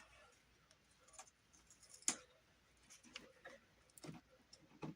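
Near silence in a small room, broken by a few faint, scattered clicks and taps.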